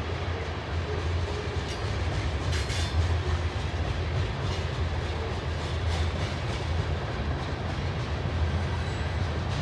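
Train cars rolling past: a steady low rumble with a few scattered clicks from the wheels on the rails.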